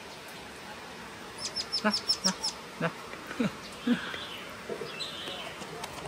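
A small bird gives a quick run of about eight high, short chirps, over the steady hiss of rain. A few soft knocks follow.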